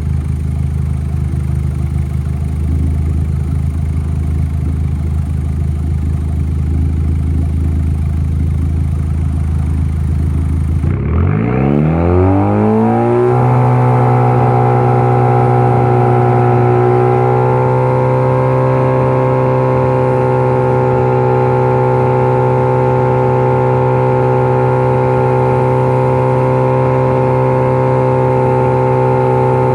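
Car engine and exhaust idling steadily, then revs rise smoothly over about two seconds and are held at a raised, steady engine speed, creeping up a little once more partway through.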